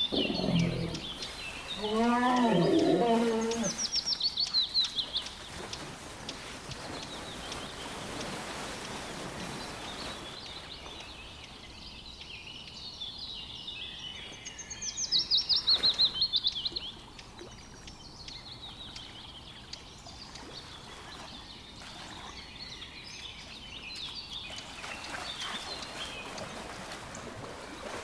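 Songbird singing a high, descending trill, repeated about every ten seconds over a steady background hiss of outdoor ambience. About two seconds in, a louder, lower animal call of several quick repeated notes.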